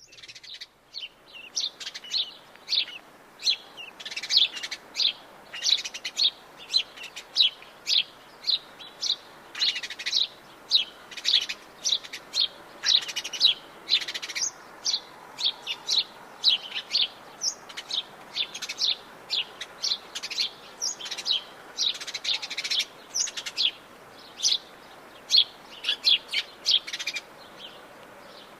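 Several wild forest birds chirping and singing in quick succession, a few short high calls every second, over a faint steady background hiss.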